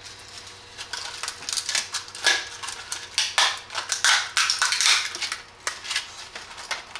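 Support material being broken off a 3D-printed plastic part by hand: an irregular series of sharp plastic clicks, snaps and cracks starting about a second in.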